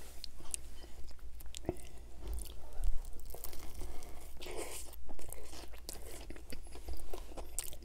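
Close-miked biting, crunching and chewing of a sub sandwich with ripple potato chips. Sharp crackles run throughout, with a dense crunch about four and a half seconds in.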